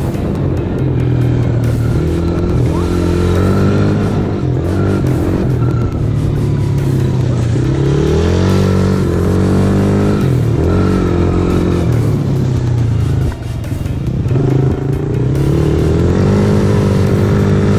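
Small off-road vehicle engine running and revving, its pitch rising and dropping repeatedly as the throttle is worked.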